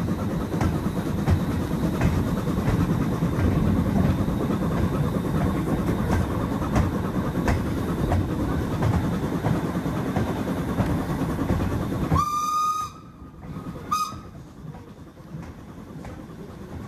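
Heritage railway carriage running along the track: a steady rumble with regular clicks of the wheels over rail joints. About twelve seconds in, the locomotive's whistle sounds briefly, the running noise drops suddenly much quieter, and a second, shorter whistle follows a couple of seconds later.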